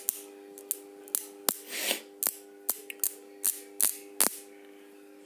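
Microwave-oven transformer humming steadily while the ends of its thick two-turn copper secondary are touched together, giving about a dozen sharp arcing cracks, some trailing into short sizzles. The sparking shows the converted transformer is delivering high current.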